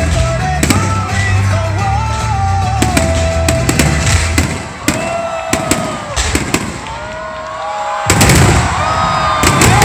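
Aerial fireworks going off over background music: music for the first few seconds, then a series of sharp bangs from about five seconds in and a loud, dense volley of bursts near the end.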